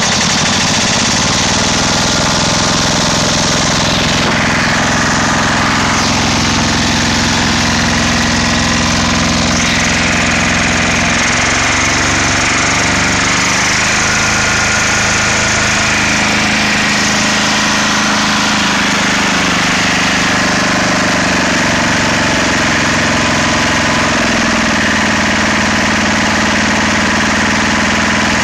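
Hatz air-cooled diesel engine running steadily just after starting, with its speed shifting a few times as the throttle is adjusted.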